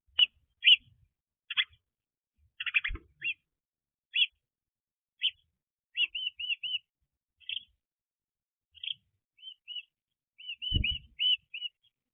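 Small birds chirping at the nest in short, irregular chirps, with a few quick runs of three or four arched notes. There are two dull low thumps, one about three seconds in and one near the end.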